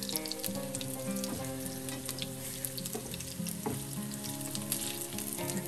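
Zucchini pancakes shallow-frying in hot avocado oil, sizzling steadily with a constant crackle of small pops. Background music with held notes plays underneath.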